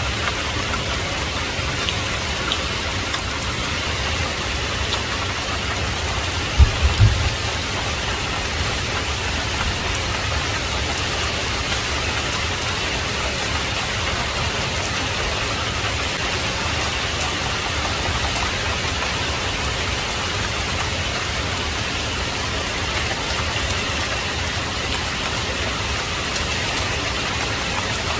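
Heavy rain falling steadily, a dense even hiss. About seven seconds in, a brief low rumble or thump stands out as the loudest moment.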